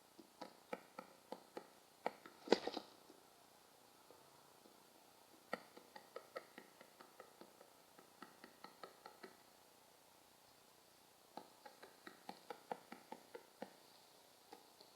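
A bird pecking at a hard surface: runs of light, quick taps, several a second, in three spells, with a louder scuffle about two and a half seconds in.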